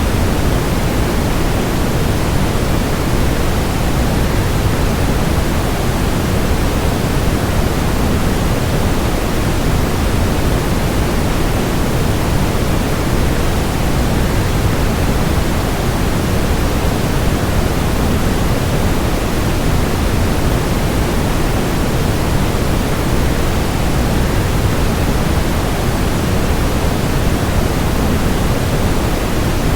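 A waterfall's steady, unbroken rush, heaviest in the low end and without change.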